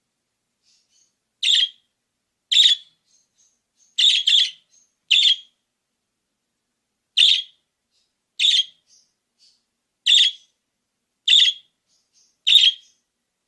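Budgerigar calling in short, sharp chirps, about ten of them at roughly one-second intervals, one pair coming in quick succession, with fainter soft chirps in between.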